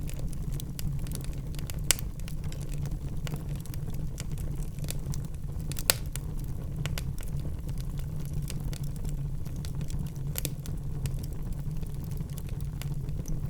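Wood fire burning in a fireplace: a steady low rumble of flames with irregular crackles and snaps from the logs, and two sharper pops about two and six seconds in.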